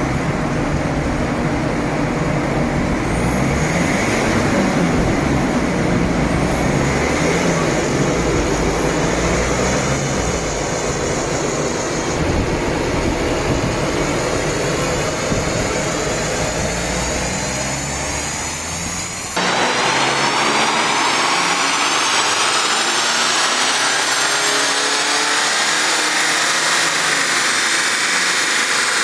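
BMW 320d E46's four-cylinder diesel engine, running a stage 1 remap, under load on a roller dynamometer during a power run. About two-thirds through the sound changes abruptly to a brighter whine that rises steadily in pitch as the engine pulls up through the revs.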